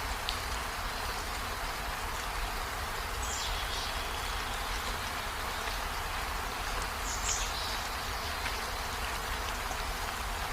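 Steady rainfall, an even hiss with a low rumble beneath, and two brief high chirps about three and seven seconds in.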